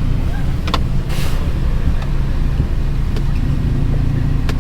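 Dodge Charger Scat Pack's 392 (6.4-litre) V8 idling steadily, heard from inside the cabin, with a couple of short clicks and a brief hiss about a second in.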